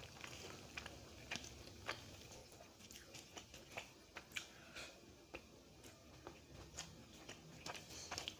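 A person eating: faint chewing with scattered soft mouth clicks and smacks, several a second at times.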